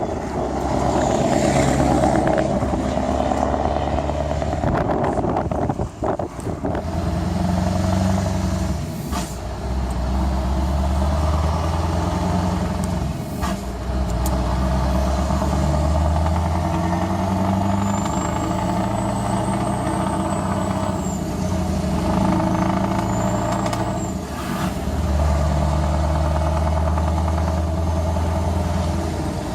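Scania R500 V8 diesel truck with an open exhaust pipe, its engine rumbling loudly in several long pulls that ease off and pick up again. A faint high whistle rises and falls twice around the middle.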